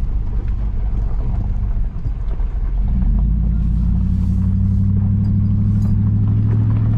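Vehicle engine and tyres on gravel heard from inside the cab, a steady low drone that gets louder from about three seconds in as the vehicle moves off along the gravel road.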